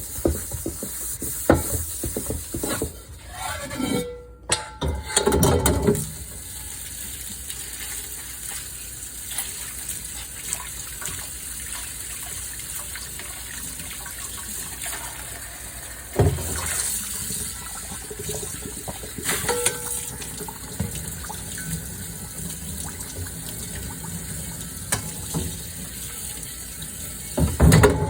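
Washing up at a kitchen sink: tap water running over dishes, with clicks and clatter near the start and louder splashing surges a few times.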